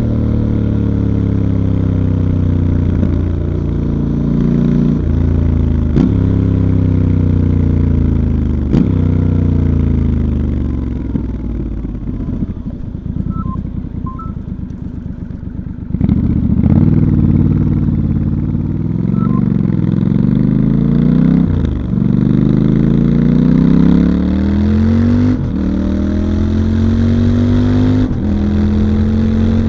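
2019 Triumph Scrambler 1200 XE's 1200 cc parallel-twin engine, stock exhaust, accelerating through the gears: the pitch climbs and then drops sharply at each of several upshifts. Around the middle it falls back, lower and quieter, then pulls up through the gears again.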